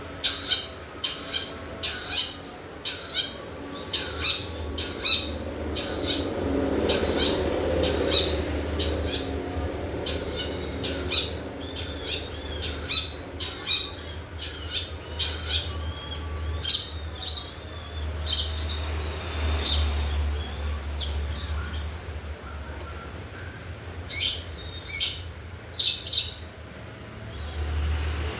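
Pet long-tailed shrike calling: a run of short, sharp high chirps about twice a second, turning into a faster, varied twittering song in the middle and back to spaced chirps near the end. A steady low hum runs underneath.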